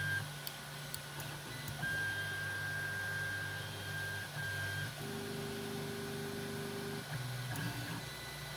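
Creality Ender 3 Pro 3D printer's stepper motors humming as the axes move at the start of a print, the pitch changing in steps as each move begins and ends, over a steady high whine.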